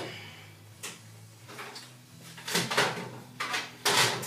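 Knocks, clicks and scraping clatters of hands and a screwdriver working on a front-loading washing machine's casing and control panel, loudest about two and a half and four seconds in.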